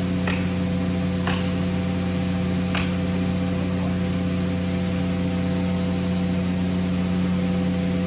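A steady machine drone, a low even hum, with a few short sharp clicks about a second in and near three seconds in.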